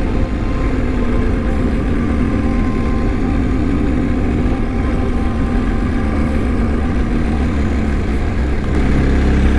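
BMW R1250 motorcycle's boxer-twin engine running steadily, its rumble getting deeper and louder about nine seconds in.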